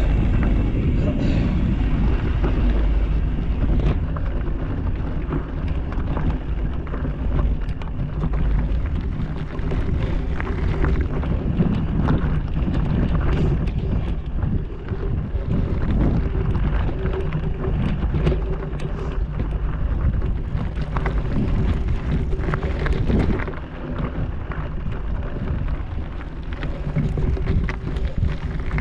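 Wind buffeting the microphone while riding over rough trail, with scattered rattles and knocks.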